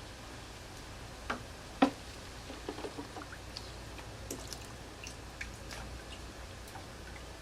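Sparse drips and light clicks over a low steady hum, with one sharper click about two seconds in.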